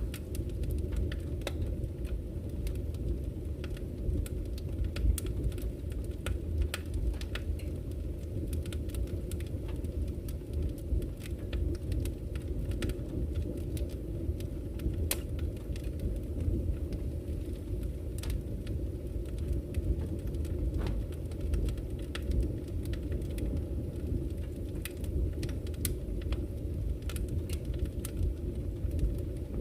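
Campfire crackling, with irregular sharp pops and snaps scattered throughout, over a steady low rush of flowing river water.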